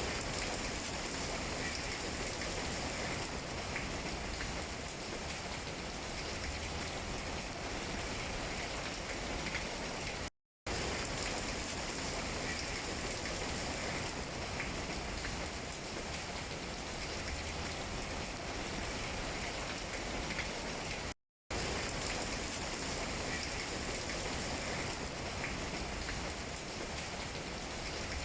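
Steady rain falling on tree leaves, a continuous even patter. The sound cuts out to silence for a split second twice, about ten and twenty-one seconds in.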